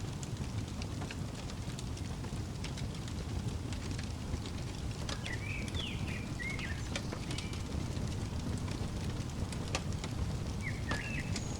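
Wood fire crackling, with scattered sharp pops over a steady low rumble. A bird chirps a short run of notes around the middle, and again near the end.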